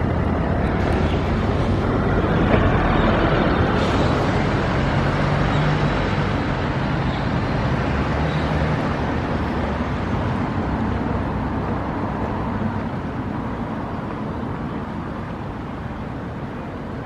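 A large engine passing, its low hum over a wash of noise loudest a couple of seconds in, then slowly fading away.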